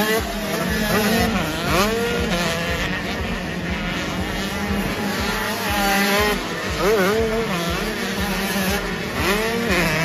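Several 85cc two-stroke motocross bikes racing, their engines revving up and down, several at once.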